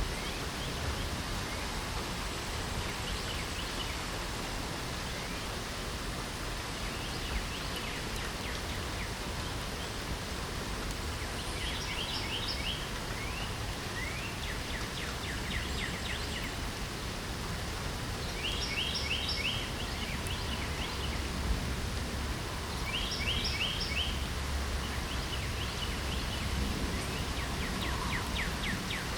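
Steady hiss of light spring rain, with birds singing short, rapid trilled phrases every few seconds, more often in the second half.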